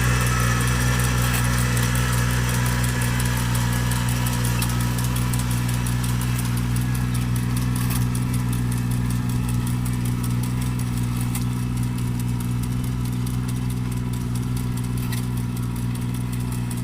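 Tractor engine running steadily at a constant low speed, easing slightly quieter towards the end.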